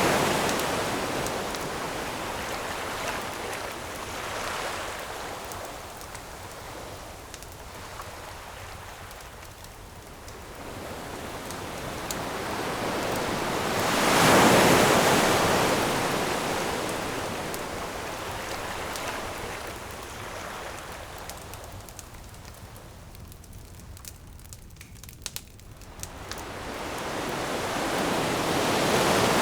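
Ocean waves washing up on a beach, slow surges that build and fade, with one swelling up about halfway through and another building near the end. Faint crackles and pops from a wood campfire sound over them, a few sharper pops about three-quarters through.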